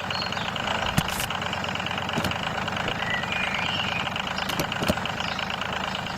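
Motor running steadily with an even, idling-like rhythm, with a few brief clicks.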